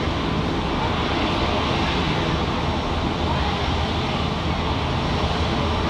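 Loud, steady engine noise of a jet airliner, an even rumble that neither rises nor falls.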